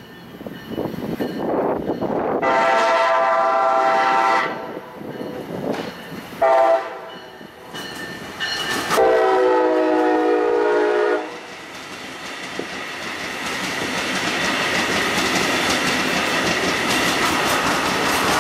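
Brightline trainset's Siemens Charger locomotive sounding its multi-note horn in three blasts: a long one, a shorter one, then another long one. The train then passes close at speed, a steady rush of wheels on the rails that grows louder toward the end.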